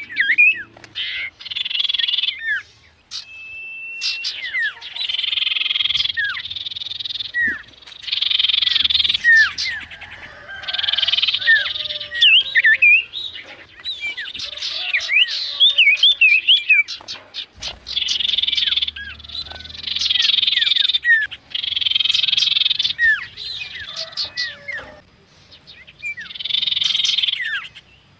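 Bird calls: a run of harsh, buzzy phrases about a second long, repeated every second or two, mixed with many quick whistled notes that slide up and down.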